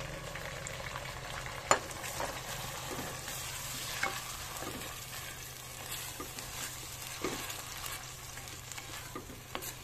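Blended spice paste and sliced shallots sizzling in hot oil in a clay pot, stirred with a wooden spatula that knocks against the pot now and then, sharpest about two seconds in.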